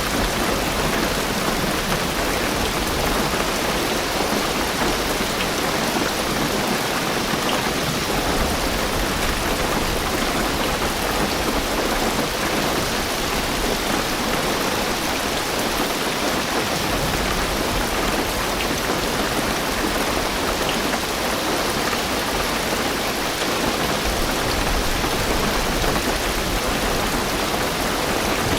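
Heavy rain drumming steadily on a car's roof and windows, heard from inside the car, with a low rumble underneath that rises and falls.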